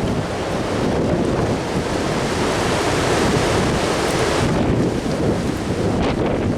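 Strong gusting wind rushing and buffeting the microphone, a loud steady rumble with no let-up.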